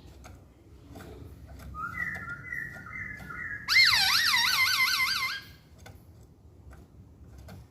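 Masked laughingthrush (poksay Hongkong) singing: a few level whistled notes, then a loud whistle warbling rapidly up and down for about a second and a half.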